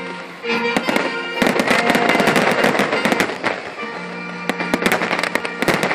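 Aerial firework shells bursting and crackling in a rapid barrage, dense from about a second and a half in, over music with sustained string notes.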